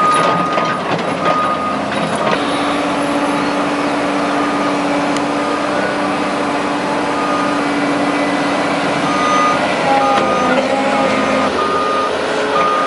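Heavy machinery's reversing alarm beeping repeatedly over the steady running of its engine, with a steady engine drone in the middle stretch.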